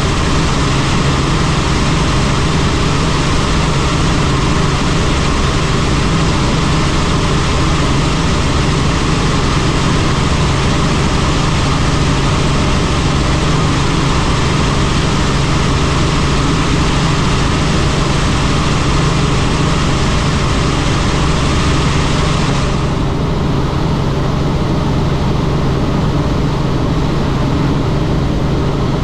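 Helicopter turbine and rotor noise heard in flight, a loud steady drone with a strong low hum and dense hiss. About three quarters of the way through, the high hiss drops away abruptly while the low drone carries on.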